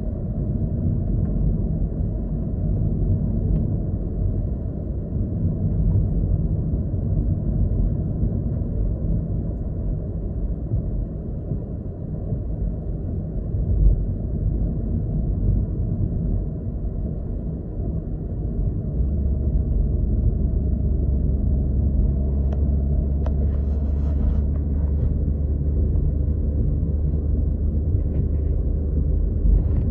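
Car driving, heard from inside the cabin: a steady low rumble of tyres and engine on the road. About two-thirds of the way through it settles into a steadier, deeper drone.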